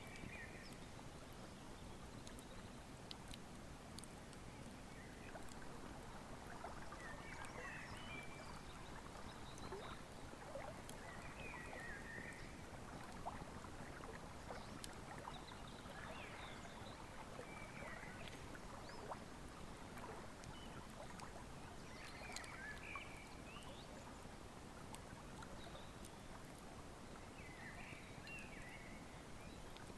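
Wood fire crackling with scattered sharp pops, over the steady rush of a flowing river. Short bird chirps come every few seconds.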